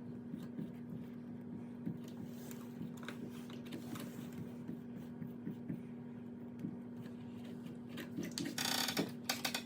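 Electric plastic welding tool humming steadily while plastic filler strips are melted into a hole in a plastic kayak hull, with light clicks and taps throughout and a short scraping rustle near the end.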